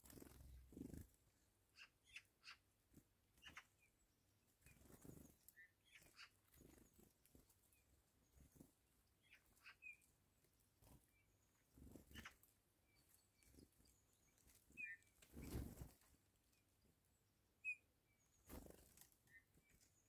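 Faint, scattered short bird calls and ticks, heard over several soft low rumbles.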